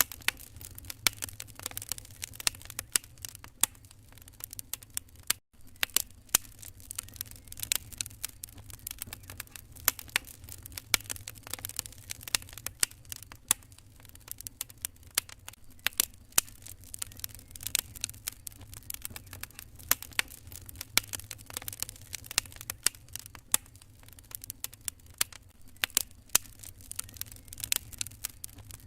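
Wood fire crackling in a fireplace: many irregular sharp pops and snaps over a low steady rumble, with a split-second gap about five and a half seconds in.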